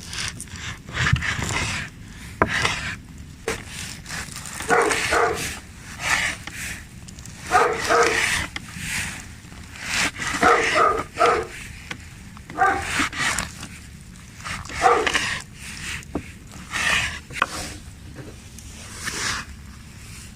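A dog barking and whining, in short pitched calls repeated every few seconds.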